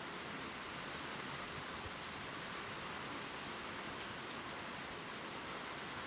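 Gentle steady rain pattering on leaves, an even hiss with a few faint drop ticks.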